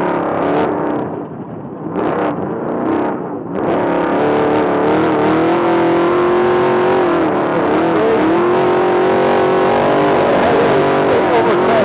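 Off-road trophy truck's V8 engine running hard at race speed. It eases off about a second in, comes back on near four seconds, then holds a steady high note with brief dips twice later.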